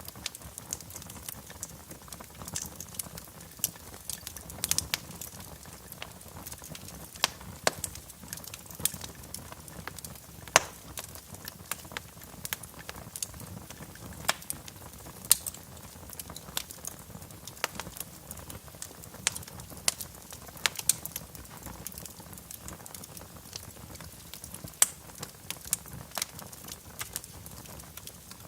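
Wood fire crackling in a fireplace: irregular sharp pops and snaps, several a second at times, over a soft steady hiss.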